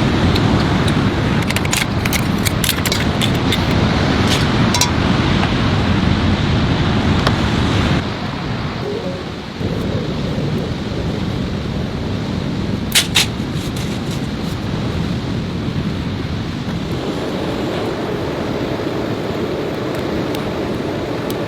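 Heavy rain and wind, a steady rushing noise, with scattered sharp ticks in the first few seconds and a couple more near the middle. The noise drops and changes suddenly about a third of the way in.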